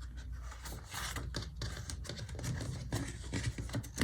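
Paper stickers being handled, peeled and rubbed down onto a planner page: irregular soft rustles, scrapes and taps.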